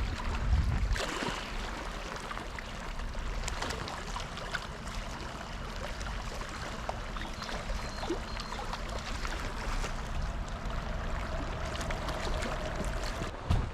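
Water lapping and splashing at the lake's edge, a steady wash scattered with small ticks, with low wind rumble on the microphone; a louder swell comes about half a second in.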